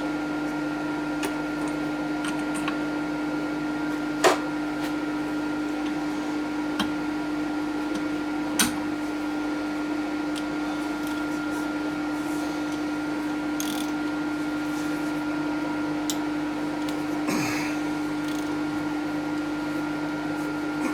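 Steady electric motor hum from workshop machinery, broken by a few sharp clicks of tool handling, about four seconds in, about eight seconds in, and again near the end.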